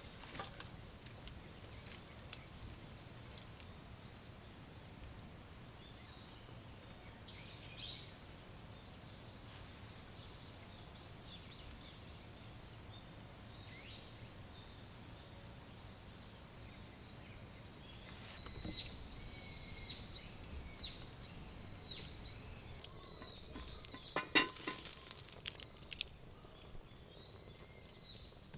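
Birds chirping: series of short, high calls repeated over a quiet outdoor background, growing louder about two-thirds of the way in. Near the end come a few sharp clicks and a brief rustling burst.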